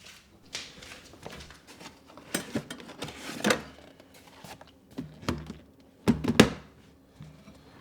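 Household objects being handled: a run of light knocks and clatters, loudest as two sharp knocks close together about six seconds in.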